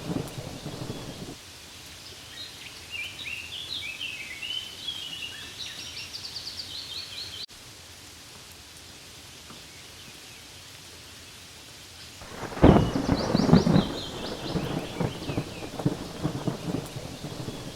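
Rain ambience with thunder rumbling in two spells: one fading early on, and a louder one breaking in suddenly about two-thirds of the way through and then easing off. High chirping trills sound over the rain in between and again with the second rumble, and the sound cuts off abruptly near the middle.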